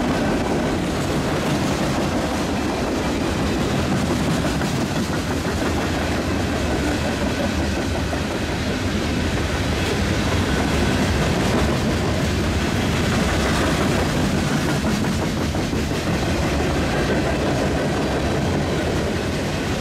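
A mixed freight train's boxcars, covered hoppers and tank cars rolling past at speed, their steel wheels running on the rails in a steady, even noise.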